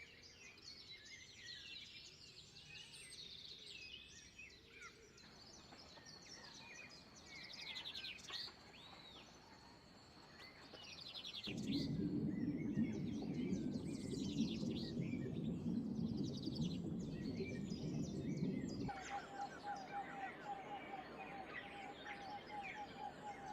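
Several wild birds chirping and singing over one another in short, high calls and trills. About halfway through, a loud low rushing noise comes in for several seconds. Near the end, a fast series of repeated lower notes starts up.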